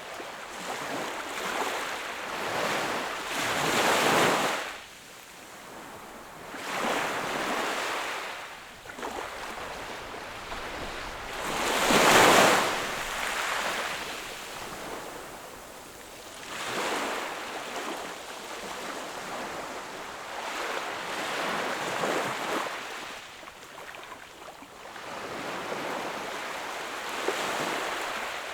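Sea waves breaking and washing up the shore, one surge every four or five seconds, the biggest about twelve seconds in.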